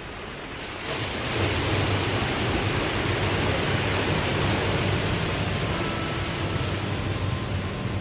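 Waterfall rushing steadily, a dense roar of falling water that grows louder about a second in and then holds.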